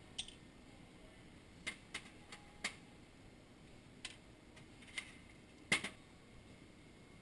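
Light, sharp clicks and taps of small hard objects, about eight of them at uneven spacing, the loudest and doubled one near the end.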